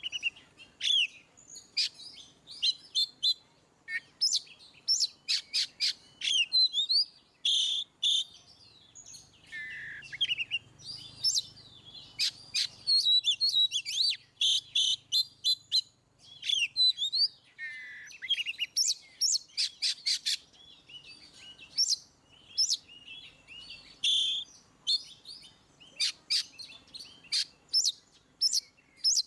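Oriental magpie-robin (kacer) singing on and on in loud, open song: a long run of varied clear whistles, sweeping slurred notes and rapid strings of sharp chirps, broken only by short pauses.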